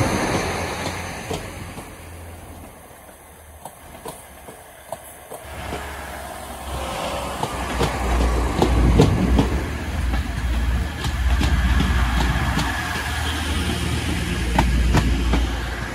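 TransPennine Express passenger train running past along the platform. A low rumble dips briefly, then grows louder in the second half, with the wheels clicking repeatedly over the rail joints.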